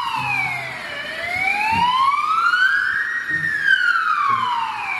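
Ambulance siren wailing in slow sweeps: the pitch falls for the first second, rises to a peak about three seconds in, then falls again.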